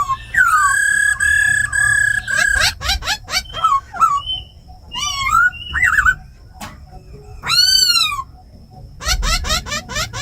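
Laughingthrush singing a varied song: clear held whistles at first, then quick rattling trills, swooping notes and a long arched whistle, ending in a fast run of notes.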